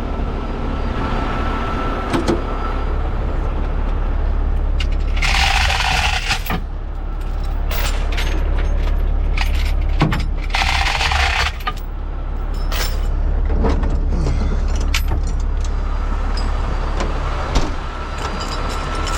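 A heavy truck engine idling with a steady low rumble, while compressed air hisses sharply from an air-brake line twice, each for about a second, around five and ten seconds in. Scattered metallic clicks and knocks come from the air couplings being handled.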